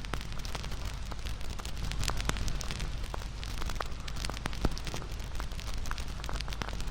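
Wood bonfire burning, crackling with many irregular sharp pops over a steady low rumble of the flames; one pop, about two-thirds of the way through, stands out louder than the rest.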